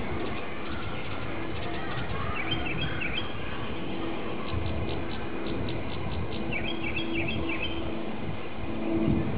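Small birds chirping and twittering in short bunches, about two seconds in and again around seven seconds, with quick ticking notes between, over a steady faint hum and outdoor background noise.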